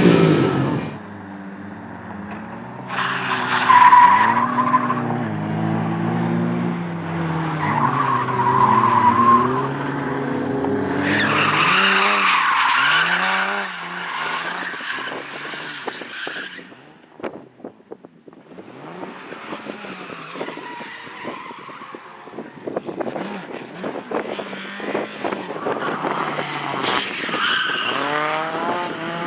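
Rally cars driven hard, engines revving up and down as they pass, with tyre squeal and skidding as they slide through corners. Several separate passes, with a brief lull about two-thirds of the way through.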